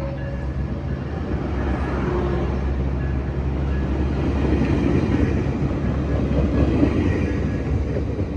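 Diesel train running: a steady low engine drone under a broad rumble, swelling a little in the middle.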